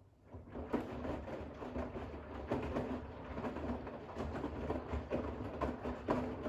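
Bosch WAX32GH1 front-loading washing machine starting a rinse tumble: the drum begins turning just after the start, with wet towels tumbling and water sloshing in irregular soft thuds over a low motor hum.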